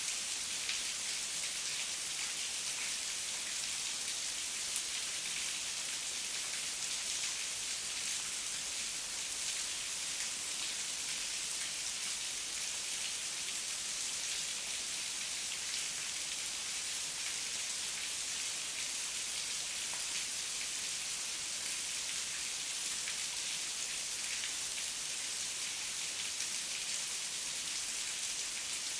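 Heavy rain falling steadily, a constant hiss of many fine drops with no thunder.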